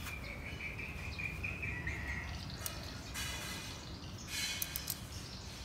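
Birds calling: a long steady whistle that drops slightly in pitch after about two seconds, then two short raspy calls.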